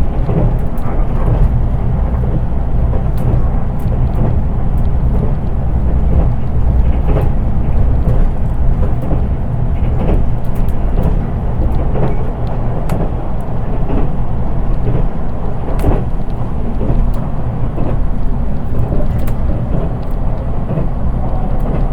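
Interior running noise of a JR East 183 series express train, heard inside its unpowered KuHa 183 driving trailer car: a steady low rumble of wheels on rail with frequent short clicks and rattles. Because the car has no motors, there is little motor sound, only plain running noise.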